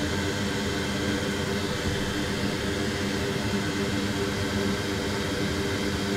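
Steady whir of a fan or blower with a low hum, unchanging throughout.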